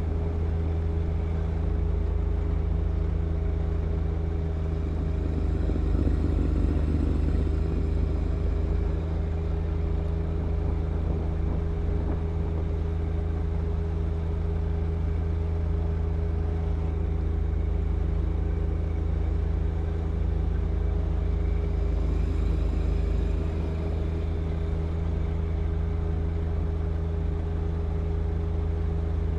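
John Deere 1025R compact tractor's three-cylinder diesel engine running steadily at one speed while it clears snow with its snow blower.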